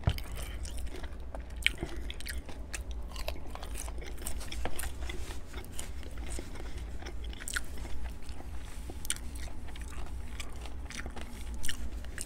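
Close-miked chewing of a mouthful of crisp bacon: scattered crunches and wet mouth clicks throughout, over a steady low hum.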